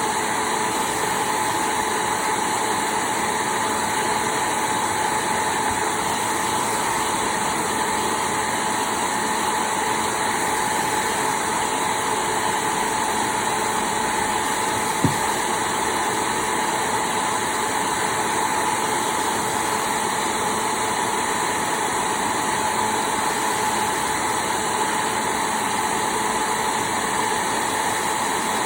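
Hair dryer running steadily: a constant rush of air with a steady whine over it. A single sharp click about halfway through.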